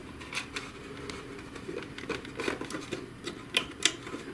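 Hands working on the printer's control board and ribbon cables: scattered small clicks and taps of plastic and connectors, with two sharper clicks near the end.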